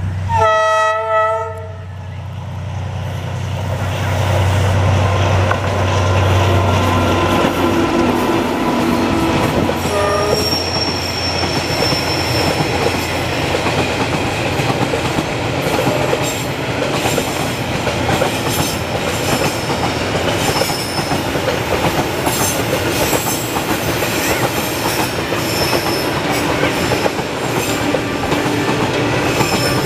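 Vietnam Railways diesel locomotive horn blast in the first second and a half, over the engine's low hum. Then a container freight train rolling past: a steady rumble of wheels on rail with clickety-clack over the joints, a short horn note about ten seconds in and a thin high squeal just after it.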